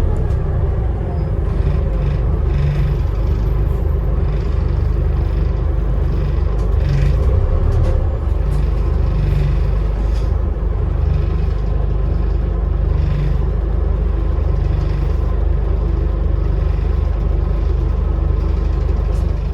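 Scania Enviro 400 double-decker bus under way, heard from inside the lower deck: a steady engine drone with road and body rumble.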